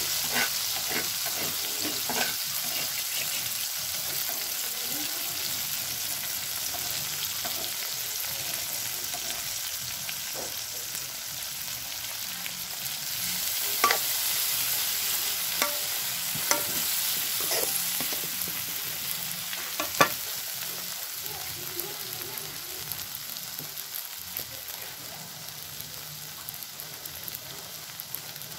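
Grasshoppers sizzling as they fry in oil in an iron wok, with a metal spatula scraping and clinking against the wok every so often. The sizzle slowly dies down toward the end.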